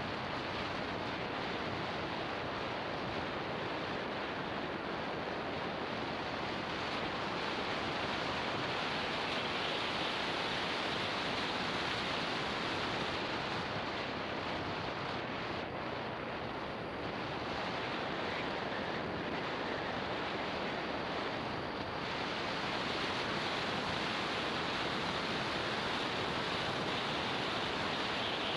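Steady rushing wind noise on the microphone of a motorbike in motion, with no distinct engine note; it eases slightly for a moment about halfway through.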